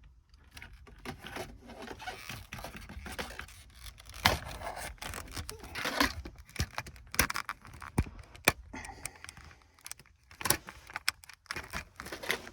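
Hands unplugging plastic wiring-harness connectors from the center dash bezel's controls of a 2000 Toyota Sienna: many scattered sharp plastic clicks with scraping and rustling of the panel and wires.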